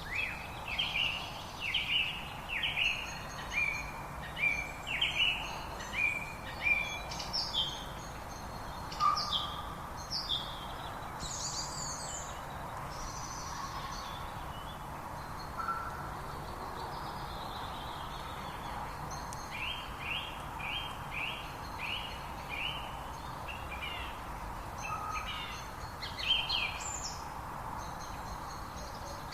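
Several songbirds singing: runs of quick, high, downward-sweeping chirps over a steady background hiss, busiest in the first twelve seconds and again from about twenty seconds in.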